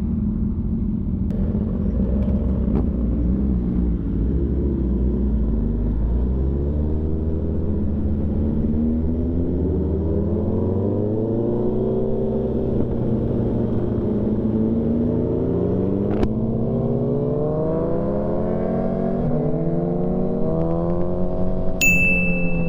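Motorcycle engine under way, at first a steady low drone, then from about six seconds in rising in pitch and dropping back several times as it pulls through the gears. A short high-pitched beep near the end.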